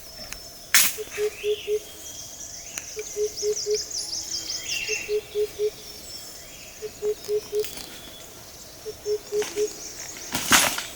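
A bird calling: groups of four short, low, even whistled hoots, repeated about every two seconds, with higher bird chirps and trills over them. Two sharp knocks, about a second in and louder near the end.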